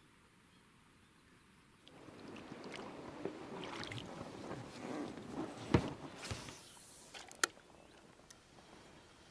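Water splashing and sloshing close by for several seconds, with two sharp clicks near the end.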